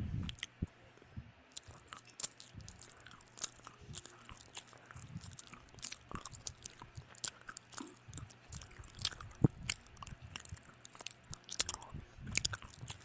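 Close-up chewing and mouth sounds of people eating, with irregular small wet clicks and light crunches, one sharper click about nine and a half seconds in.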